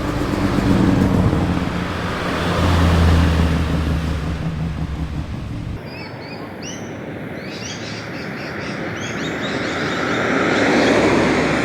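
Small car engines as cars drive into a car meet. First an engine runs and revs, loudest about three seconds in; after an abrupt cut about six seconds in, another car approaches and passes with a swelling, then fading rush, with high chirps over it.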